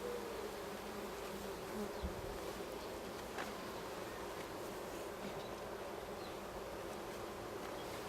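Honeybees buzzing steadily around an open hive, a constant hum with a wavering pitch, from a colony the beekeeper judges to be queenless.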